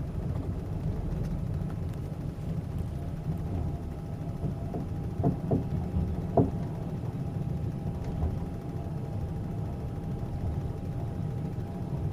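Steady low rumble of the Rossiya passenger train running on the Trans-Siberian line, heard from inside the carriage, with a few short sharp clacks a little past halfway.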